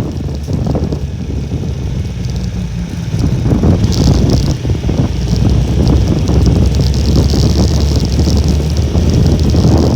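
Honda Little Cub's small single-cylinder four-stroke engine running while the bike is ridden, with strong typhoon wind buffeting the microphone. The sound grows louder about three and a half seconds in.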